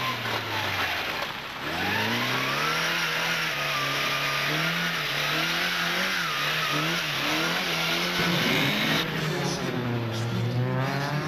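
Rally car engine at full throttle, its note dipping and then climbing as it accelerates. The pitch rises and falls with gear changes and drops lower again near the end.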